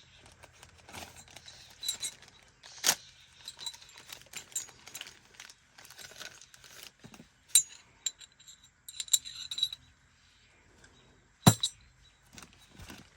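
Scattered metallic clinks, taps and clicks of small parts and hand tools being handled, with a louder sharp knock about three seconds in and another near the end.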